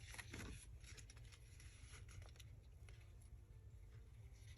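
Near silence: faint rustles and small clicks of paper being handled, clearest in the first half second, over a low steady room hum.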